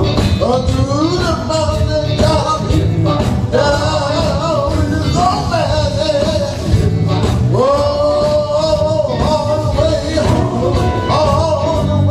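Live gospel music: a male voice singing long held notes over a band with bass and steady drum beats.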